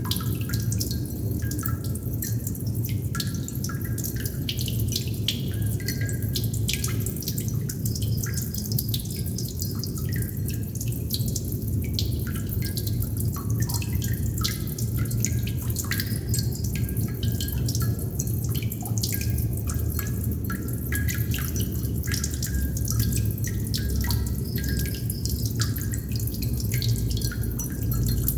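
Water droplets dripping continually, many small drops falling at irregular intervals, some with a short pitched plink, over a steady low rumble.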